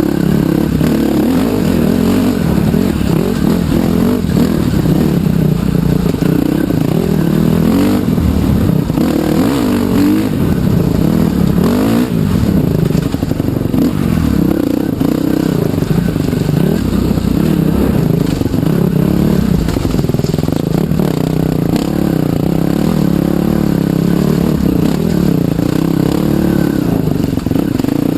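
Trail (dirt) motorcycle engine running continuously under way, its pitch rising and falling as the throttle is opened and eased.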